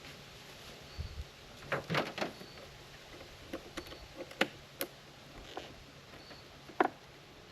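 Scattered clicks and knocks of wooden beehive equipment being handled, about half a dozen irregular taps over a faint steady low hum.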